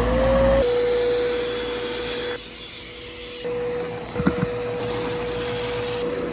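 A small wet/dry vacuum motor running at a steady high pitch after spinning up, used to pull on a clogged air-conditioner condensate drain line. There are a couple of short knocks about four seconds in.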